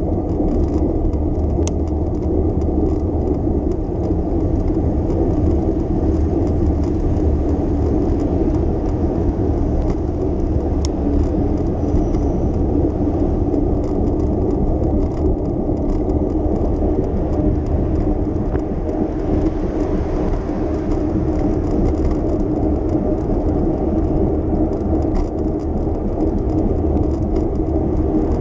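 Steady low rumble and whir of a bicycle ride through city streets: rolling road noise and traffic, with two faint ticks about 2 and 11 seconds in.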